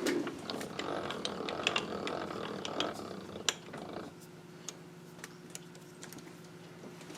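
Handling of tools at a milling machine: a run of small sharp clicks and light metallic rattling for about four seconds, then quieter, over a steady low hum.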